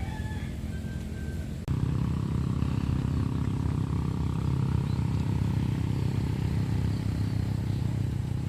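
Low, steady engine hum of motor vehicles, becoming louder after an abrupt cut about two seconds in.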